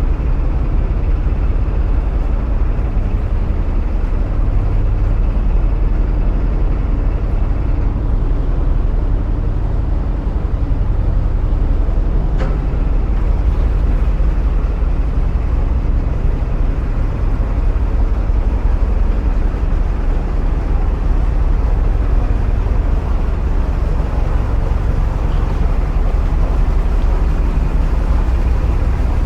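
Narrowboat's diesel engine running steadily inside a canal tunnel, a loud, even low drone with the churn of the boat's passage. A brief click sounds about twelve seconds in.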